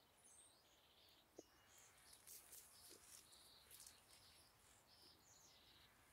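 Near silence, with faint short high-pitched bird chirps scattered throughout.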